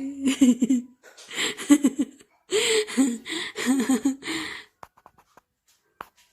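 A person laughing in a run of breathy, giggling bursts that stop a little before five seconds in, with a few faint clicks afterwards.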